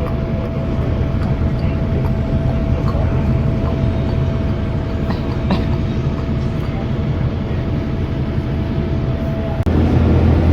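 Vehicle in motion heard from inside: a steady low rumble with a constant whine above it. Near the end the whine stops and the rumble abruptly becomes louder and deeper.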